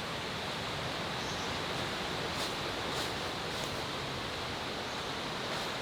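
Steady rushing of water from a jungle river, with a few faint clicks around the middle.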